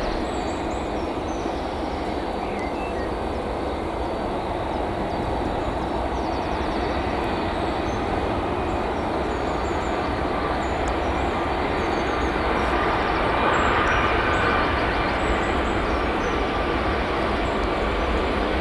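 Steady distant rumble and hiss of a Boeing 757-200's jet engines on approach, mixed with rain noise, swelling slightly past the middle. Birds chirp faintly and briefly.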